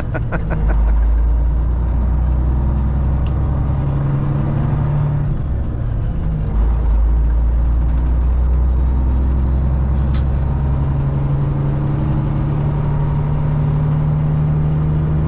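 Semi truck's diesel engine running at low speed, heard from inside the cab as a loud low drone that shifts in pitch a few times, with a couple of faint clicks.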